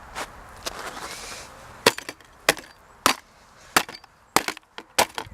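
Old internet router's plastic casing being struck hard, about six sharp blows in a steady rhythm roughly every half second to the end, after a second of scraping at the start.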